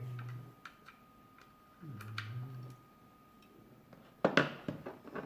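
Light clicks of something being handled, a brief low hummed voice about two seconds in, and a louder burst of sharp knocks and clatter a little after four seconds.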